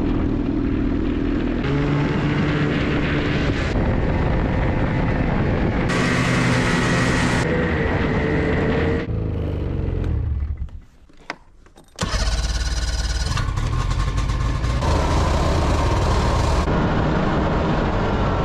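A snowmobile engine running steadily, its pitch shifting abruptly several times as clips are cut together. It drops out briefly to a much quieter stretch with a few clicks about two-thirds of the way through.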